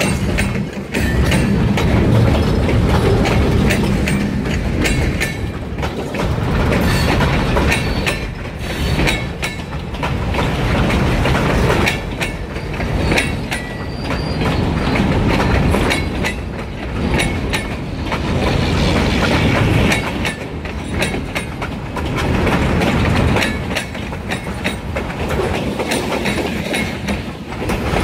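Freight train rolling past at close range, its wheels clacking over the rail joints, the level swelling and dipping every couple of seconds as the cars go by.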